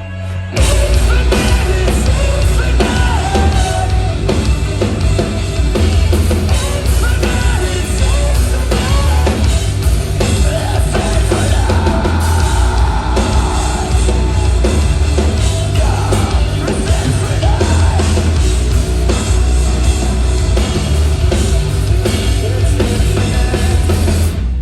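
Post-hardcore band playing live at full volume: distorted guitars, heavy drums and vocals. The full band crashes in about half a second in, after a brief quieter moment.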